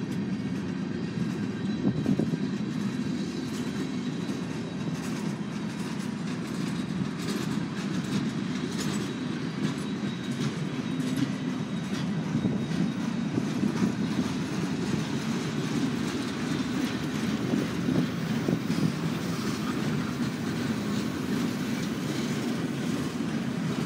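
Freight cars of a long train rolling past: a steady low rumble of wheels on rail, with wheels clicking over rail joints.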